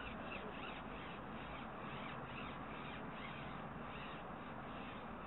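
Birds calling outdoors in a rapid string of short calls, two or three a second, over a steady background hiss.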